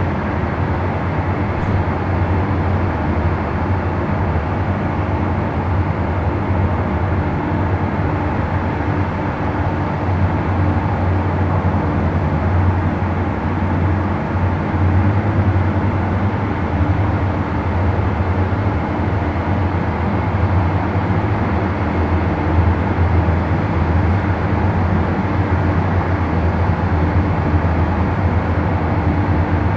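A steady low mechanical hum with a deep drone that stays constant throughout.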